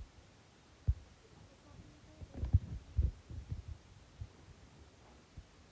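Irregular low thumps and bumps: a single one about a second in, then a cluster of several in quick succession about two to three and a half seconds in, and a last one a little past four seconds.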